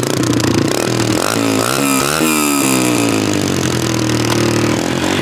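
Dirt bike engine revving: its pitch climbs about a second in, drops back, holds steady for a while, then starts to climb again near the end.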